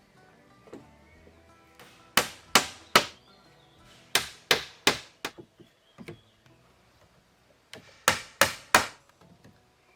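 Axe chopping wood: sharp strikes in three runs of three or four, about 0.4 s apart, with quiet pauses between the runs. Faint background music plays underneath.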